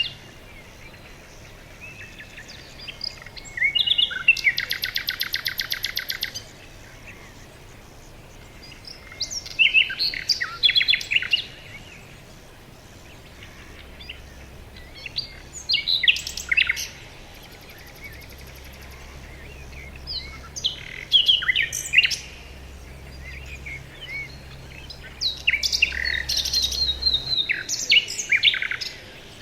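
Songbirds singing in a forest: short chirping phrases from several birds come every few seconds, with a fast, even trill lasting about two seconds near the start.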